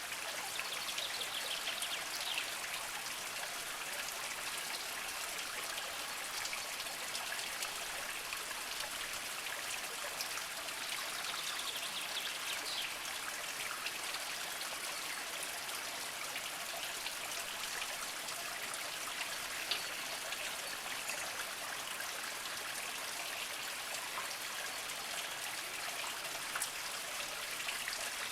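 Small spring trickling and dripping steadily over mossy rocks.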